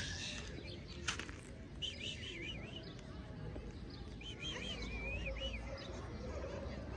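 A small bird singing: two short runs of quick warbling chirps, one about two seconds in and a longer one from about four to five and a half seconds in, over steady outdoor background noise. A single sharp click sounds about a second in.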